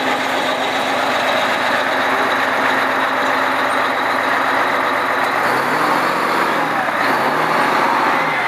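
Fire engine's engine idling steadily. Its note wavers up and down a few times near the end.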